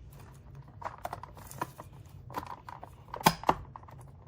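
Plastic clicks and taps as the top cover of a Seagate Backup Plus Hub enclosure is pressed down and snapped into its clips, with two sharp snaps close together about three seconds in.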